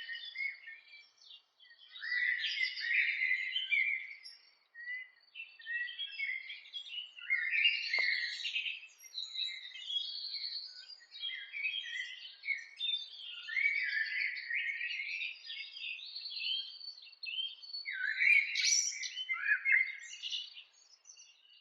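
Birds singing and chirping, several quick, varied phrases overlapping in a busy morning chorus, with short lulls about one and a half and four and a half seconds in.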